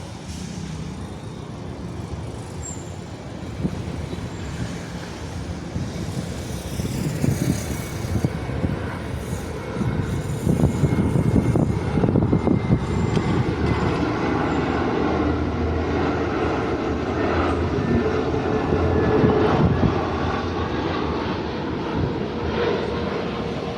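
Airbus A320neo's CFM LEAP-1A turbofan engines as the airliner comes in to land and passes: a rumble that builds over the first ten seconds and stays loud, with a steady engine whine on top.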